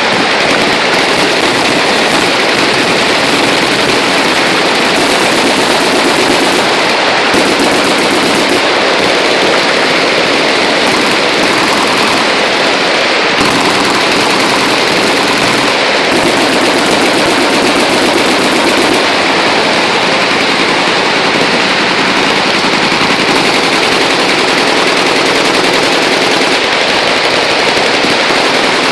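Sustained automatic machine-gun fire, loud and unbroken, the shots packed so densely that they run together with no pauses.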